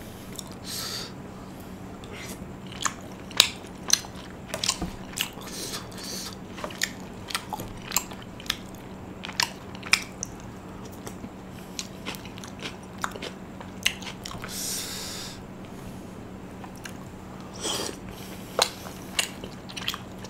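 Close-miked chewing of tteokbokki rice cakes in spicy sauce: irregular wet mouth clicks and lip smacks, with a brief breathy hiss about 15 seconds in.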